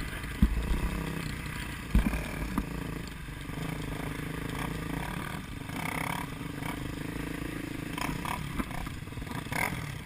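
A vehicle engine running steadily, with two dull thumps early on, about half a second and two seconds in.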